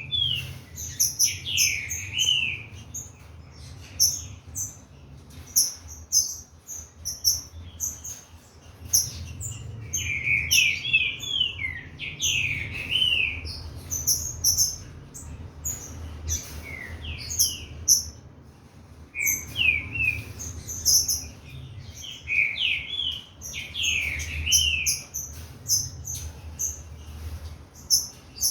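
Green-winged saltator (trinca-ferro) singing in repeated short phrases of loud gliding whistled notes, several seconds apart, with high thin chirps in between. The bird is warming up its song.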